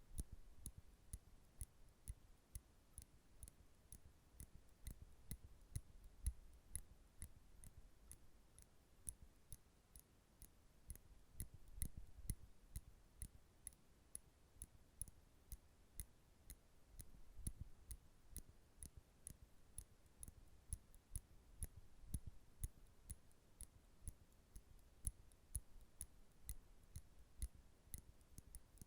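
Nail clippers clicking close to the microphone: a steady run of sharp, faint clicks, about two or three a second.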